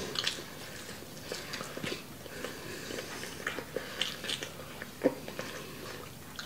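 Close-miked chewing of chicken wings, with scattered short, wet mouth clicks.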